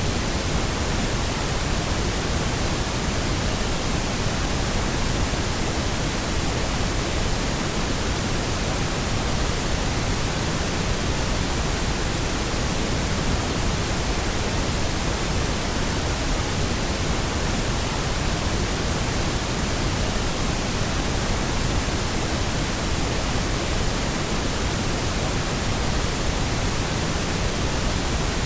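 Steady pink noise: an even, unchanging hiss spread across all pitches, generated as a sleep and sound-masking aid.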